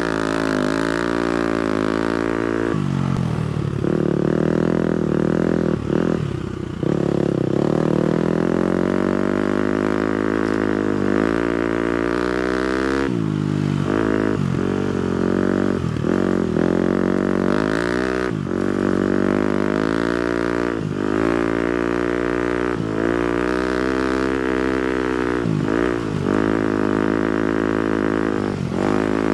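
250cc four-stroke single-cylinder motocross bike engine under way, its pitch climbing and dropping again and again as the throttle is opened and shut and gears change, with brief dips between pulls.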